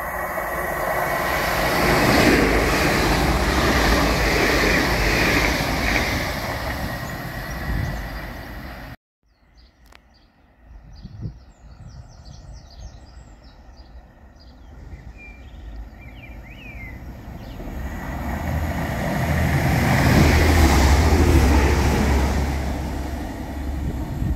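A passenger train passes at speed, a loud rush of wheels and air that builds and then fades. After a break with birds chirping over quiet, a second train arrives with a deep diesel engine rumble under its wheel noise, loudest a few seconds before the end.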